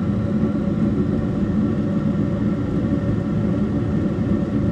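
Trane S9V2 gas furnace running: a steady motor hum and rumble with an even, unchanging pitch.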